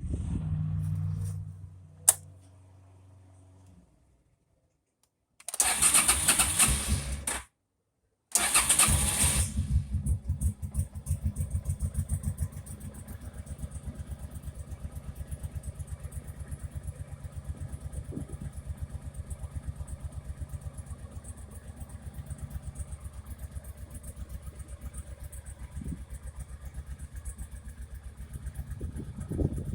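1989 Honda PC800's V-twin engine cold-started without choke: a first short crank on the starter that doesn't catch, then a second crank that fires about a second in and runs briefly higher before settling into a steady, even idle. Before the cranking there is a low steady hum and a single sharp click.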